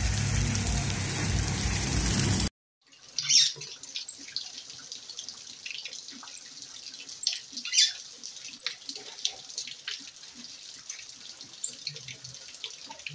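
Heavy rain pouring down, cut off abruptly about two and a half seconds in. It is followed by rainwater dripping and splashing in scattered, irregular drops over a faint steady patter.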